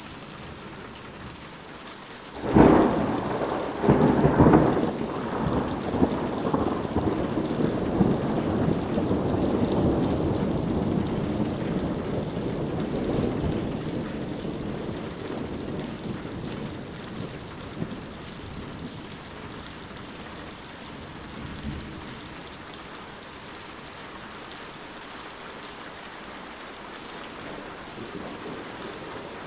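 Steady rain with a thunder crack about two and a half seconds in and a second one a moment later, then a long rolling rumble that slowly fades away.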